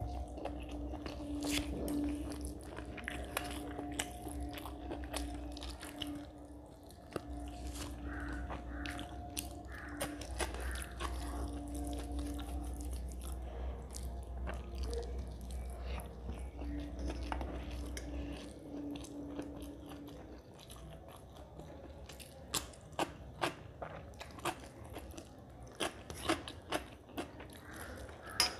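Close-up eating sounds: a person chewing rice and mutton curry with wet mouth sounds, with fingers mixing the rice on a steel plate. A low steady hum sits underneath and stops about two-thirds of the way through, and a run of sharper wet clicks comes near the end.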